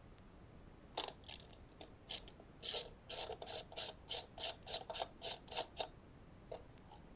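Hand ratchet wrench clicking in short back-and-forth strokes, about three a second for around three seconds after a few loose clicks, as it undoes a fastener on the go-kart engine's air filter cover.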